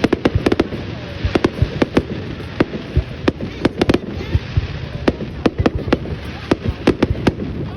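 Fireworks display: a rapid, irregular barrage of sharp bangs and pops, several a second, over a continuous low rumble of more distant bursts.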